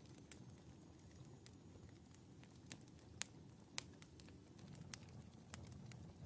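Wood fire burning in a fireplace: a soft, low rumble of flames with scattered sharp crackles and pops. The two loudest pops come about three and four seconds in.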